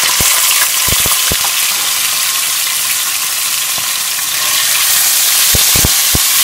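Raw chicken pieces sizzling loudly in hot oil with garlic in a kadai (wok), a steady frying hiss broken by a few sharp clicks.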